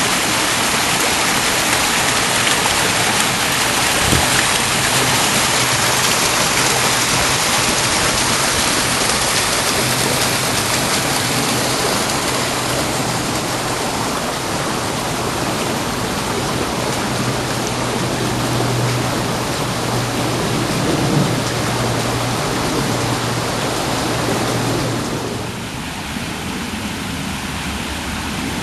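Garden waterfall splashing steadily into its pool, a dense continuous rush of falling water. About 25 seconds in, the hiss becomes somewhat quieter and duller.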